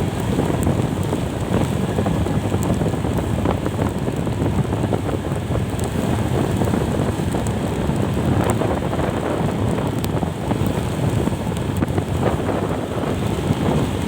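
Wind buffeting the microphone of a moving vehicle, a steady loud rush with road and engine noise underneath.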